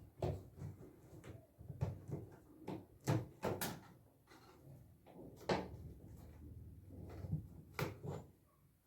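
Irregular knocks and clunks, about a dozen over several seconds: tools and parts being handled during washing machine repair work.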